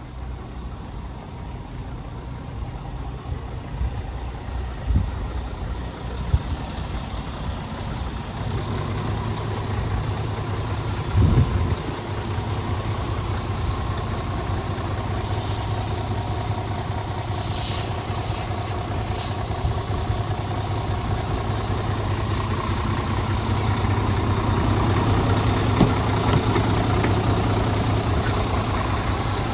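Scania P370 tipper truck's diesel engine idling steadily, with a brief louder thump about eleven seconds in. There are short hisses of air around the middle.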